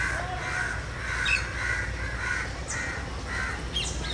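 A bird calling outdoors with a run of short repeated calls, about two a second, while a few faint high chirps from smaller birds sound in the background.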